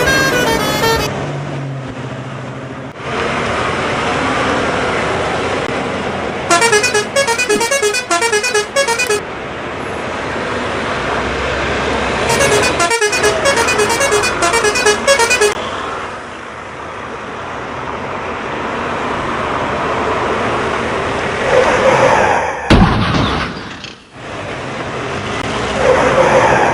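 Truck engine running steadily, with two bursts of warbling, melodic horn honking of about three seconds each.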